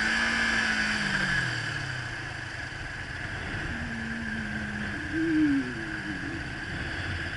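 Motorcycle engine running while being ridden, its pitch rising and then falling in the first two seconds and again around five seconds in, over a steady hiss.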